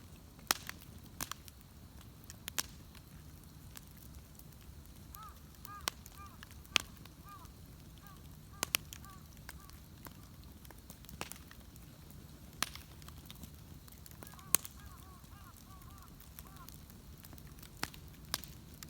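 Wood bonfire crackling, with irregular sharp pops over a low steady rumble of the burning. In the background come several bursts of short, repeated honking calls.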